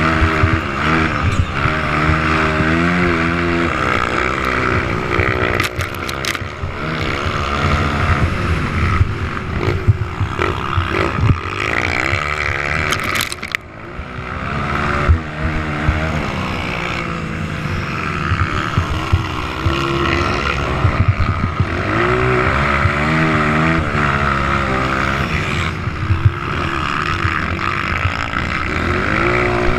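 Several motocross motorcycle engines revving, their notes rising and falling as the bikes accelerate and back off around the track. The loudness dips briefly about halfway through.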